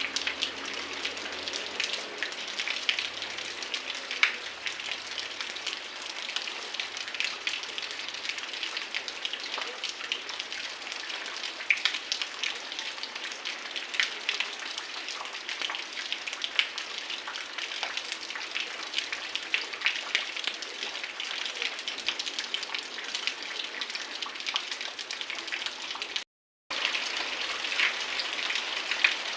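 Heavy rain falling steadily, with many close individual drops striking as sharp ticks over the constant hiss of the downpour. The sound cuts out completely for a moment near the end.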